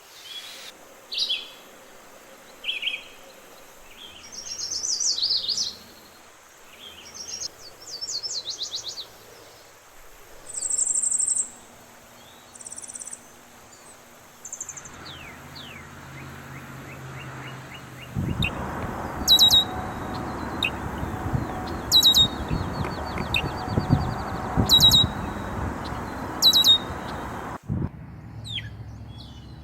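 Songbirds singing and chirping, with short high phrases and calls coming one after another. About two-thirds of the way in, a steady rushing noise comes up under a bird repeating a sharp high call every two to three seconds; both cut off abruptly near the end.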